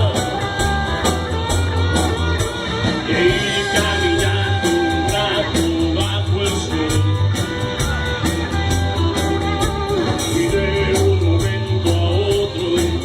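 Rock band playing a song: a guitar melody over bass and a steady drum beat.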